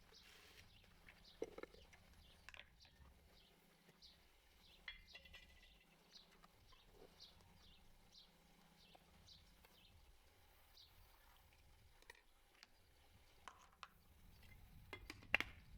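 Faint, quiet scene with a bird chirping repeatedly in short high notes, about two a second, over a low hum, and a few light knocks near the start and end.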